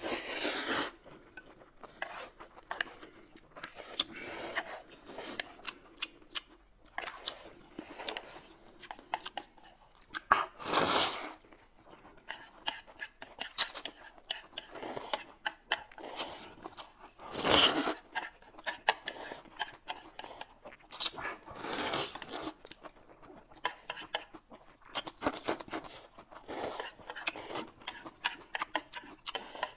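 Two people slurping and chewing noodles, with several longer, louder slurps among many short ones. Chopsticks click against the plates now and then.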